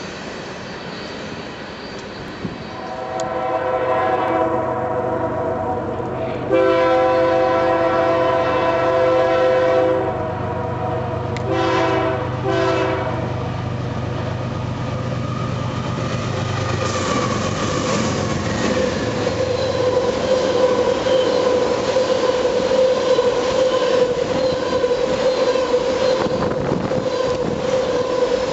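Freight train's locomotive air horn sounding a chord: a long blast, then two short ones as it approaches. Then the train passes quickly: a line of loaded tank cars rolling by with wheels clacking over the rail joints and a steady high ringing tone.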